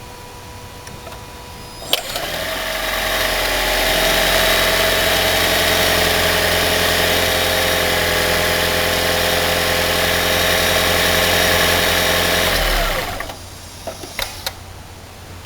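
Toyota Prius 2ZR-FXE four-cylinder petrol engine starting normally about two seconds in, spun up by the hybrid motor-generator without knocking, then running steadily. Near the end it shuts down, winding down in pitch, followed by a few light clicks.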